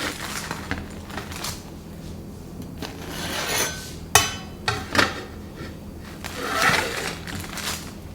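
Kitchen handling sounds: dishes and utensils clinking and knocking a few times, the sharpest knocks about halfway through, with short stretches of scraping in between, over a faint steady low hum.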